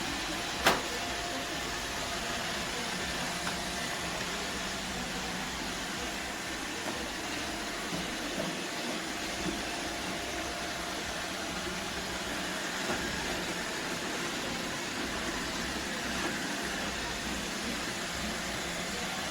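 iRobot Roomba Combo Essential robot vacuum running: a steady whir of its suction motor, with one sharp click just under a second in.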